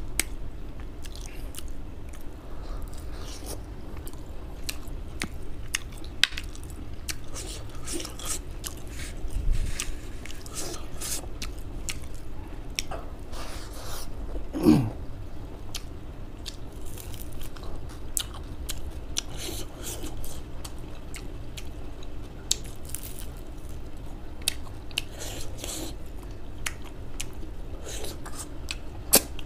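Close-miked eating by hand: steady chewing and biting, with frequent short crisp clicks and crunches of the mouth and food, over a steady low hum. One short falling tone sounds about halfway through.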